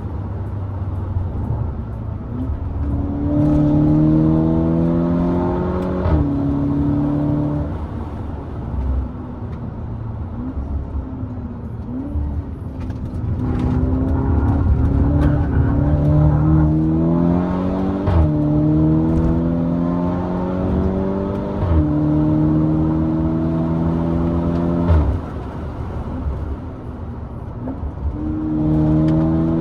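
VW Golf MK6 GTI Edition 35's 2.0 TSI turbocharged four-cylinder, with a decat downpipe, accelerating hard through the gears. Its note climbs and then drops sharply at each quick DSG upshift, several times over, with short cracks at some of the shifts.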